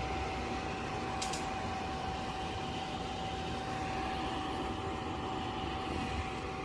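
Portable camping air conditioner running: a steady fan rush with a constant hum tone, and one brief click about a second in.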